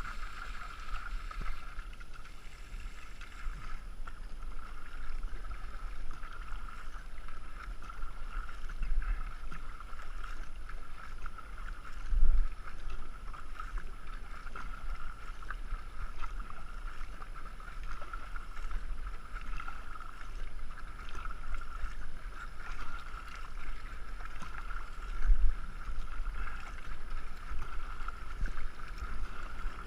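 Racing canoe being paddled on a river: steady rush of water and paddle splashes, with wind rumbling on the microphone. Two louder low thumps about 12 and 25 seconds in.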